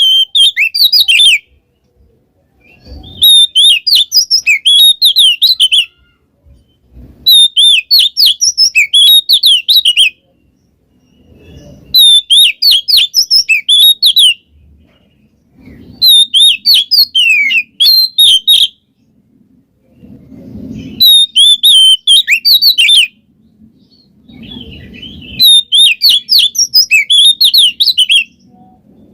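Oriental magpie-robin (kacer) singing loud, rapid, high chattering phrases in bursts of two to four seconds, repeating about every four seconds with short pauses between.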